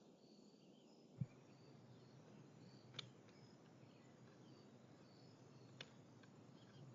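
Faint outdoor ambience with small, short high-pitched chirps repeating throughout, a single low thump about a second in, and two sharp clicks later on.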